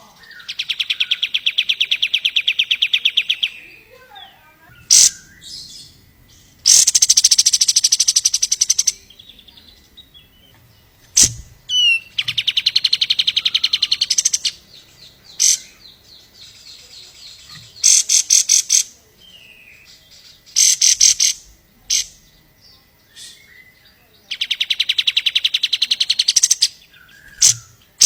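Kapas tembak songbird singing: long, fast trills of repeated notes lasting two to three seconds each, given four or five times, with short sharp single calls and brief chatter between them.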